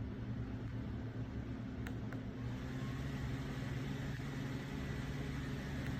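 Minthouz portable clip-on USB mini fan running, a steady motor hum with the rush of its airflow, growing slightly louder about halfway through.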